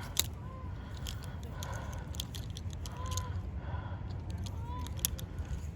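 Scattered clicks and scrapes of clothes and hangers being handled while looking through clothing, over a steady low rumble.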